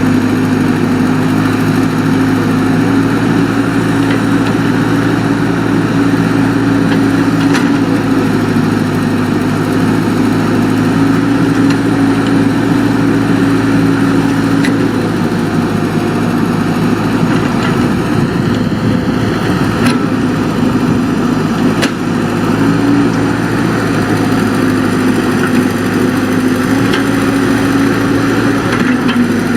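Excavator's diesel engine running steadily, its note dipping and rising a little at times, with a few faint clicks.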